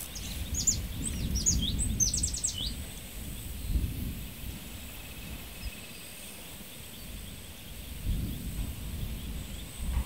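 Open-country ambience: a bird gives a run of quick high chirps in the first few seconds, over a low rumble that swells and fades.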